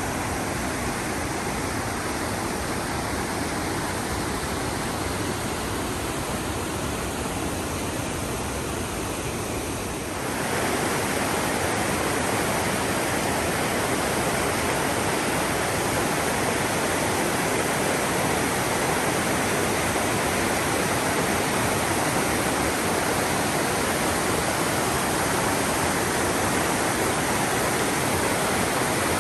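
Mossman River rushing through the gorge: a steady roar of fast-flowing water. It gets a little louder about ten seconds in.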